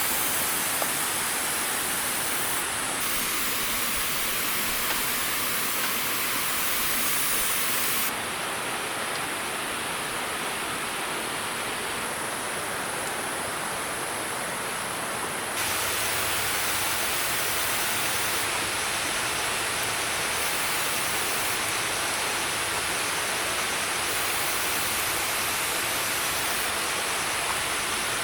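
Steady rushing of stream water, its tone shifting abruptly three times.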